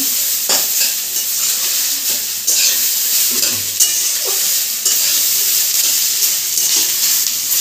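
Leftover rice frying with a steady sizzle in a kadai (wok), stirred and tossed with a flat metal spatula that scrapes against the pan every second or so.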